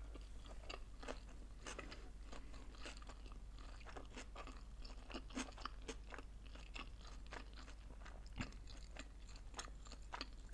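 A person chewing a mouthful of sushi rolls close to the microphone: a steady run of many faint, small mouth clicks.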